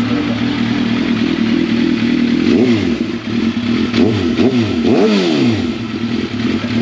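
Sport motorcycle engine idling steadily, with about four quick throttle blips in the middle, each revving up and dropping back to idle.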